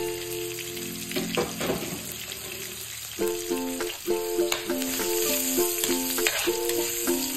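Garlic, ginger and onion sizzling in melted butter and oil in a wok, stirred with a metal ladle that clicks and scrapes against the pan. Background music with plucked notes plays over it, in a steady rhythm from about three seconds in.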